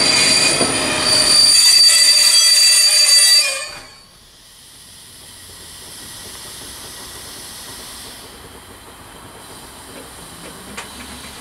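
A loud, high-pitched squeal made of several steady whistling tones over noise. It cuts off suddenly about four seconds in and leaves a much quieter steady hiss.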